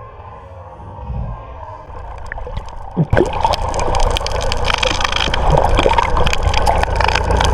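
Water rushing and splashing against a small fishing boat at sea, with scattered knocks. It starts abruptly about three seconds in and stays loud after a quieter opening.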